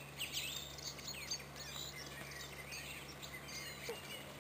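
Songbirds chirping and singing, many short overlapping calls, over a faint steady low hum.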